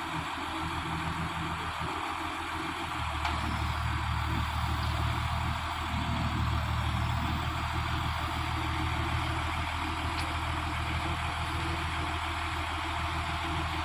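Heavy truck engine idling steadily, its low hum growing louder about three seconds in, with a steady hiss above it.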